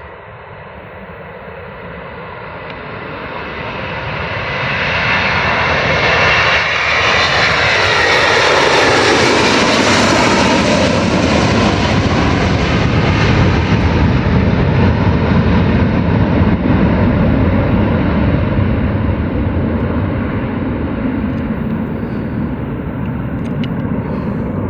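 Airbus A330-343's twin Rolls-Royce Trent 700 turbofans at takeoff power as the airliner departs: a jet roar that builds over the first several seconds and peaks about 8 to 12 seconds in. After the peak the hiss thins out while a deep ground-shaking rumble lingers.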